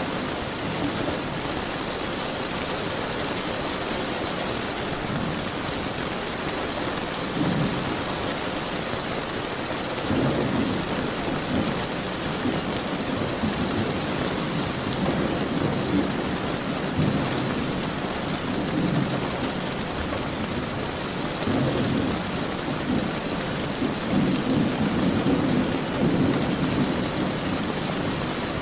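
Steady heavy rain with low rolls of thunder rumbling in again and again, the longest and loudest near the end.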